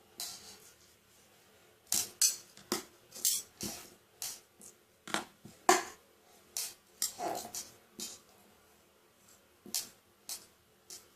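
Irregular clicks, taps and short scrapes of a utensil working against a dish or board as a soft mixture is spread out flat.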